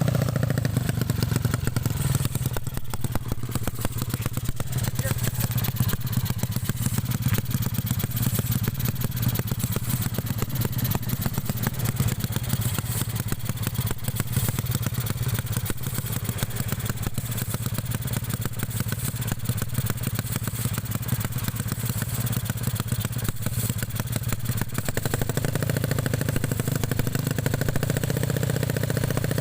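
200cc automatic scooter with a Kawahara aftermarket exhaust idling steadily, its note shifting slightly near the end.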